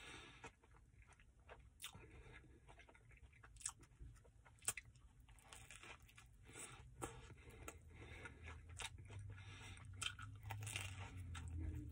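Close-up chewing and biting into a crusty sub sandwich: soft, wet chewing broken by many short crunches, the sharpest about four and a half seconds in.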